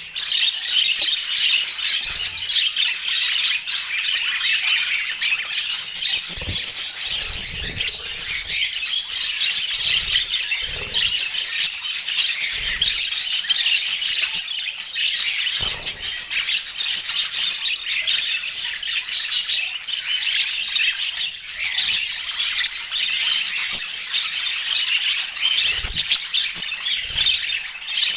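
Several budgerigars chattering and warbling without a break, a dense stream of squawks and chirps, with a few soft low knocks now and then.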